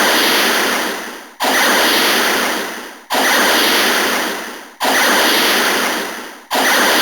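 Toy robot's electronic attack sound effect: a harsh blast of noise through the toy's small speaker, repeated about every 1.7 s, each blast starting suddenly and fading away.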